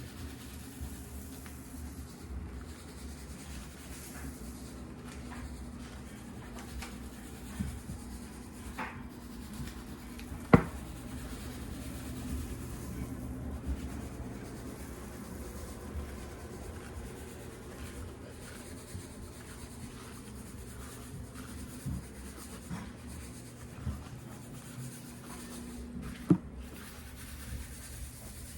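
Robot vacuums running over a floor: a steady motor hum with scattered clicks and knocks, the loudest about ten seconds in and another near the end.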